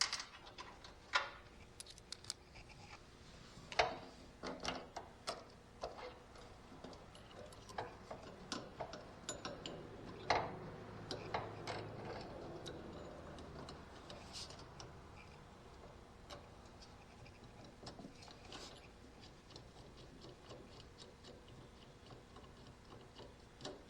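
Irregular clicks and light metallic knocks of hand tools and bolts being handled on a mower's lap bar linkage, busiest in the first half and sparser later.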